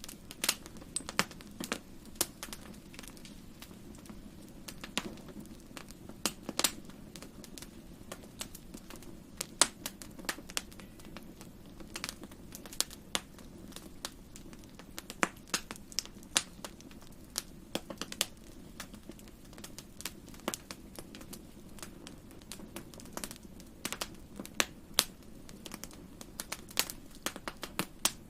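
Wood fire crackling in a fireplace: irregular sharp pops and snaps, several a second at times, over a steady low rumble.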